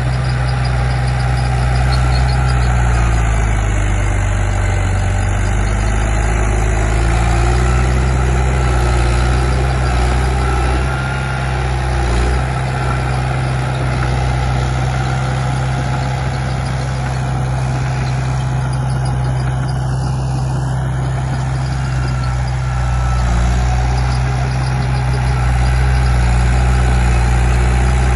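Bulldozer's diesel engine running steadily, its pitch dipping under load a few times and recovering.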